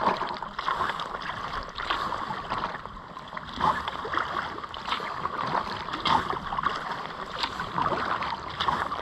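Kayak paddle strokes, a splash about every second or so, over a steady wash of moving water.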